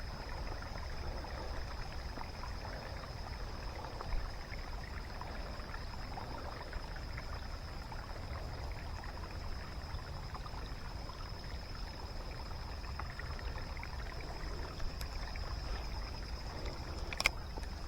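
Steady rain falling, an even hiss with a thin high whine running through it. A single sharp click comes near the end.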